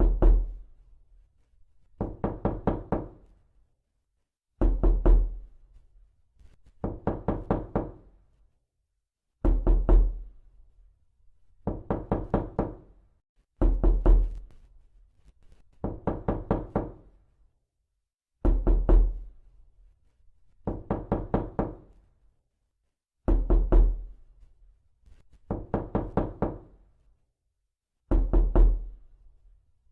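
Rapid knocking on a door in repeated bursts, each a quick run of several knocks, coming every two seconds or so with short silent gaps. Every other burst lands harder, with a deeper thud.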